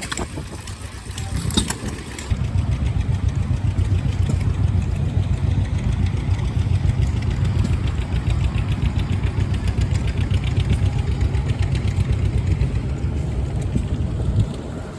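An engine running at a steady speed, with an even low rumble that comes in about two seconds in and drops away near the end.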